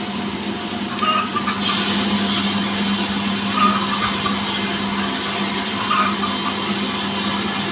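Petrol engine of a sawmill running steadily with a constant hum, joined suddenly about one and a half seconds in by a broad hissing noise that carries on.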